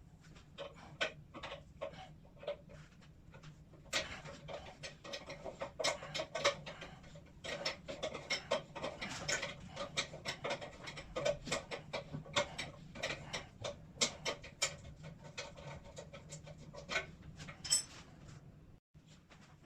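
Irregular clicks, scrapes and rustling of objects being handled, busiest between about four and fifteen seconds in, over a steady low hum.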